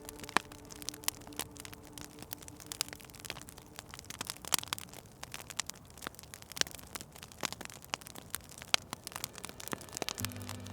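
Wood fire crackling, a dense run of irregular sharp pops and snaps. A faint sustained tone fades out in the first few seconds, and a low steady hum comes in near the end.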